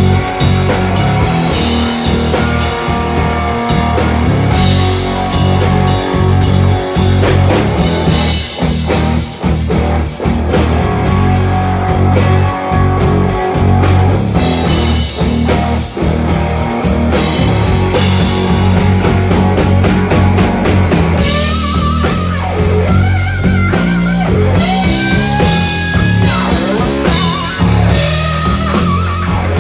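Rock band playing live, electric guitar over a drum kit; about two-thirds of the way in, a lead guitar line with bent, sliding notes stands out.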